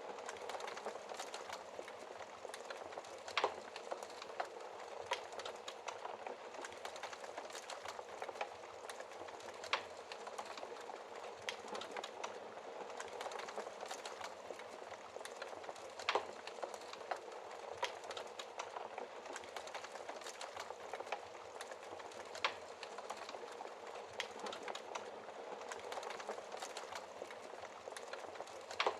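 Wood fire in a fireplace crackling steadily, with a constant hiss and frequent small snaps, and a few louder pops scattered through.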